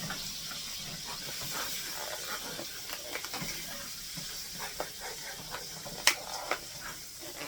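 Butter melting and sizzling in a hot skillet over the chicken drippings: a steady hiss with scattered small crackles. A sharp click comes near the end.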